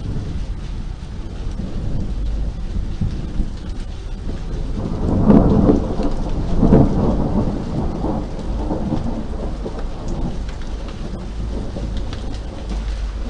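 Steady rain falling, with a low roll of thunder that swells about five seconds in and fades away over the next few seconds.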